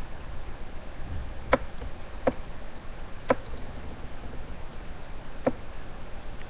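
A person chewing a piece of chicken close to the microphone: four short, sharp, wet mouth clicks at uneven intervals over a steady hiss.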